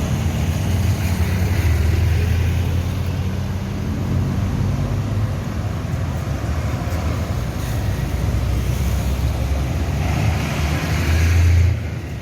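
Motor vehicle engine running with road and traffic noise, a steady low hum that drops briefly near the end.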